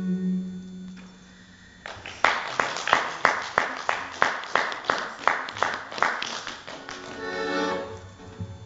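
The song's final held note on accordion dies away within the first second, then steady rhythmic clapping at about three claps a second follows for some four seconds, and a short accordion chord sounds near the end.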